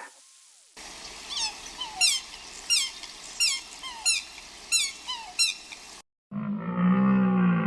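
An animal's high, squeaky calls, each falling in pitch, repeated about every two-thirds of a second. From about six seconds in, a low, drawn-out animal call follows.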